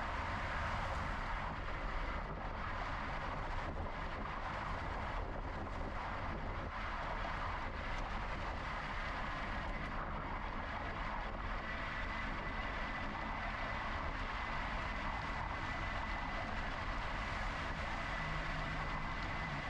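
Steady riding noise from a camera on a moving e-bike: wind and tyre noise with a low vehicle-like rumble. A thin high whine joins about twelve seconds in.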